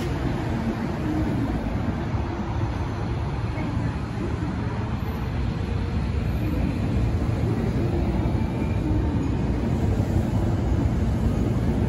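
Hankyu electric commuter train pulling out of the station and moving off along the platform, a steady rumble that grows a little louder.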